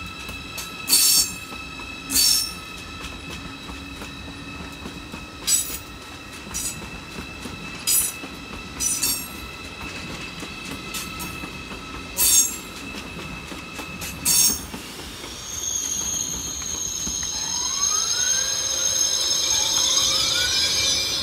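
Deutsche Bahn ICE train rolling slowly over the station tracks. Its wheels squeal in about seven short, sharp bursts over a steady high whine. In the last few seconds the sound grows louder, with two rising whines.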